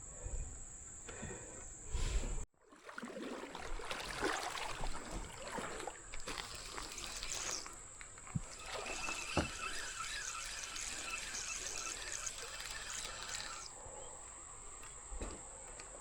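Creek water trickling, with scattered rustles and a few sharp knocks.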